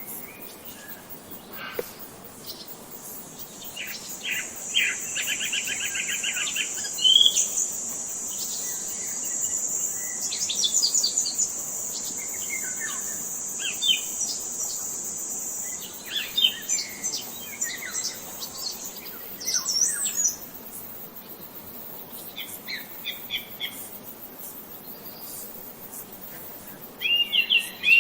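Songbirds chirping and trilling, with quick runs of repeated notes and short sweeping calls, and a livelier burst of rapid chirping near the end. A steady high-pitched buzz sits underneath from a few seconds in until about the middle.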